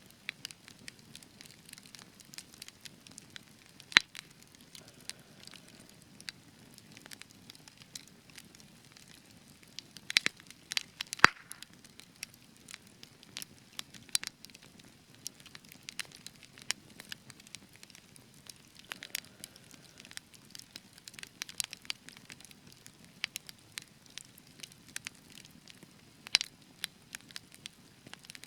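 Spruce logs burning in an open campfire, crackling with irregular sharp pops over a low hiss; the loudest pops come about 4, 11 and 26 seconds in.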